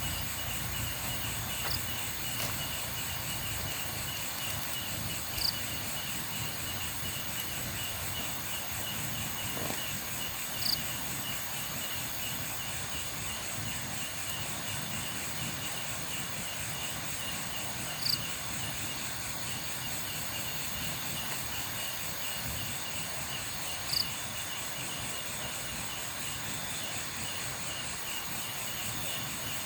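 Night insect chorus, crickets or katydids trilling steadily at several high pitches, with a short sharp chirp from another animal about every five or six seconds.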